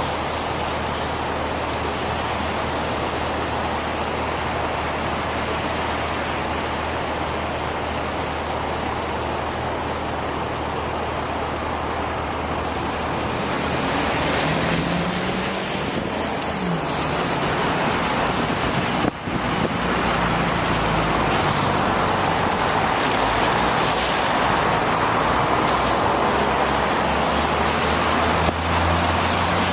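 Road traffic on wet city streets heard from a moving bicycle: a steady hiss of tyres and traffic noise. Partway through, a motor vehicle's engine passes, its pitch rising and then falling.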